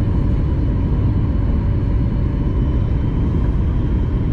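Steady cabin rumble inside a Boeing 737 MAX 8-200 airliner in flight: airflow and its CFM LEAP-1B turbofan engines running evenly, with faint steady high whines over the low roar.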